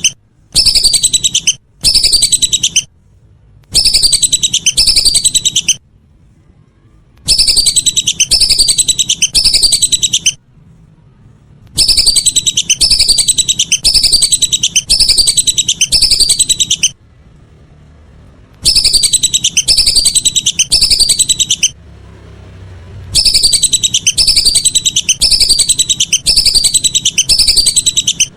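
Whistling ducks (belibis) calling: rapid series of high, downward-slurred whistled notes in loud bursts of one to four seconds, with short pauses between. This is a recorded call played as a lure.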